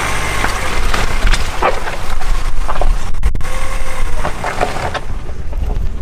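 Nissan X-Trail driving along a rutted, muddy track: a low engine and tyre rumble with repeated knocks and clatters as the car bounces through the ruts.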